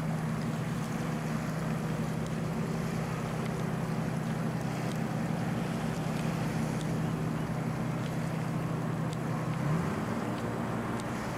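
An engine running steadily, a low hum under a rush of wind and travel noise. Its pitch rises about ten seconds in.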